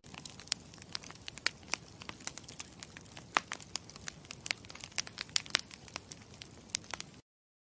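Campfire crackling: irregular sharp pops and snaps over a low steady rush, cutting off suddenly near the end.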